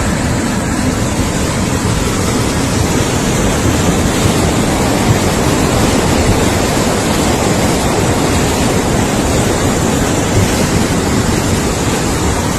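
Floodwater rushing in a loud, steady torrent.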